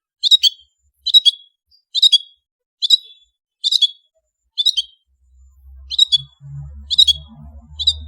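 Long-tailed shrike (cendet) repeating a short, sharp, high call a little under once a second, nine times. From about five seconds in, a faint low hum runs underneath.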